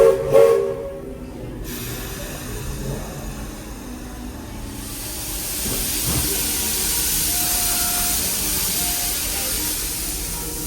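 Walt Disney World Railroad narrow-gauge steam locomotive: two short whistle toots at the very start, the usual signal that the train is about to move off. Then a steady hiss of steam venting, which grows much louder about five seconds in.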